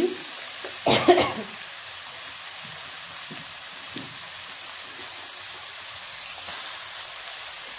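Onions and shredded cabbage frying in oil in a kadhai, a steady sizzling hiss. A brief louder sound cuts in about a second in.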